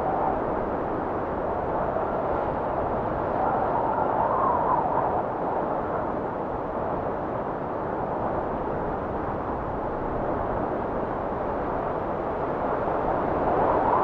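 Strong blizzard wind blowing steadily as a rushing noise, with a faint wavering howl that swells about four seconds in and again near the end.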